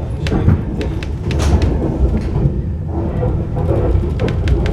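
Alderney Railway passenger train rumbling along the track, heard from inside the carriage, with frequent irregular clicks and knocks from the wheels and carriage.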